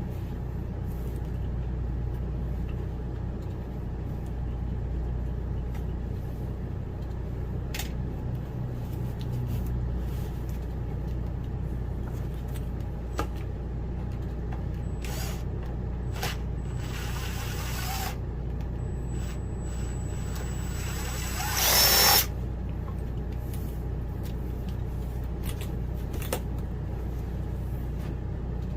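A steady low hum runs throughout, with scattered short knocks. About three-quarters of the way through, a power tool whirs briefly, rising in pitch, and this is the loudest sound.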